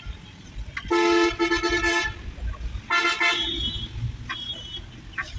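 Vehicle horn honking twice: a steady blast of about a second, then a shorter one about three seconds in, over a low traffic rumble.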